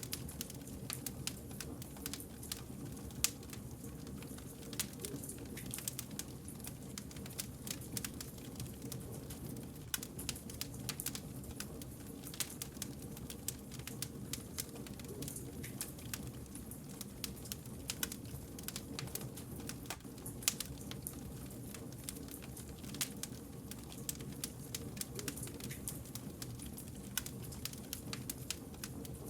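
Wood fire burning, with a steady low rumble of flames and frequent irregular crackles and pops of burning logs.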